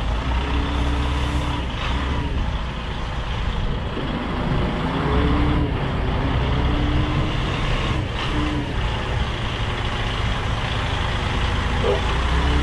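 Diesel engine of a container tractor-trailer running at low revs while it creeps through a tight turn, with brief air hisses twice.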